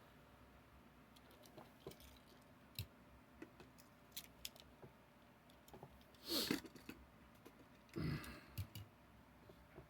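Scattered light clicks and taps from handling small die-cast toy trucks, with two louder clatters about six and eight seconds in.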